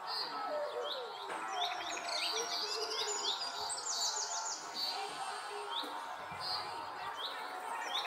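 Birds chirping: many short, quick, repeated calls, busiest from about two to four and a half seconds in.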